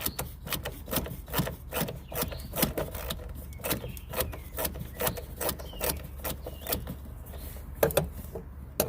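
A 9/32 ratchet clicking in quick, uneven strokes, about three to four clicks a second, as it backs out a blower motor mounting screw.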